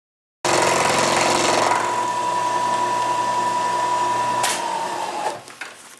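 Milling machine running, with a steady high whine, starting abruptly. A sharp click comes about four and a half seconds in, and the machine then winds down and stops.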